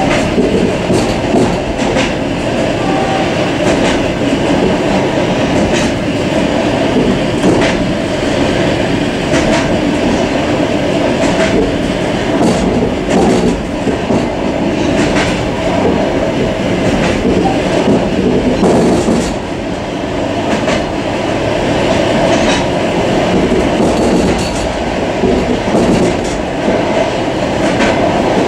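Suburban train car running along the track, heard from inside its vestibule: a steady rumble and rattle of the wheels and car body, with repeated clacks as the wheels cross rail joints every second or two.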